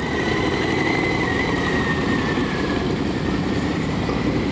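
Motorcycle engine held at steady high revs during a burnout, with a thin high squeal that sags slightly in pitch.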